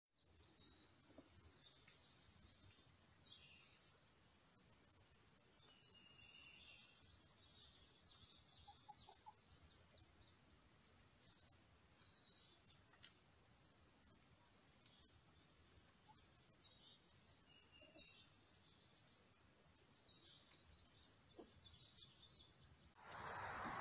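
Faint outdoor ambience of insects singing in a steady high-pitched drone, with a few scattered bird chirps. A louder noise starts just before the end.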